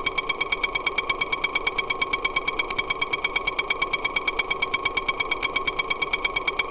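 Rapid, even mechanical ticking, about ten ticks a second over a steady ringing tone, as the Suzuki Jimny JA11's running engine sounds when heard through a homemade tin-can sound scope.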